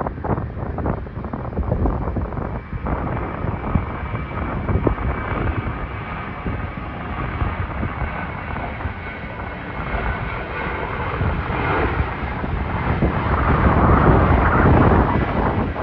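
Jet airliner departing: steady engine roar with a faint high whine, growing louder and peaking near the end.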